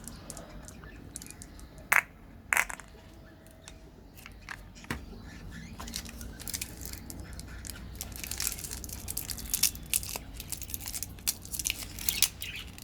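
Close-up eating sounds of crunchy candy being bitten and chewed: two sharp snaps about two seconds in, then dense crisp crackling and crunching through the second half.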